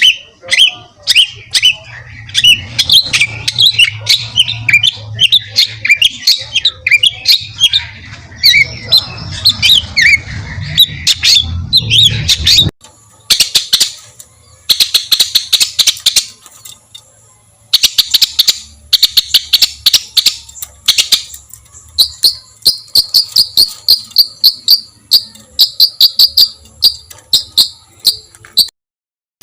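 Songbird recordings of harsh, rapid-fire 'tembakan' song used as masteran for training competition birds: a dense chattering song, then after an abrupt edit about halfway through, sharp clicks and a quick run of repeated short high notes.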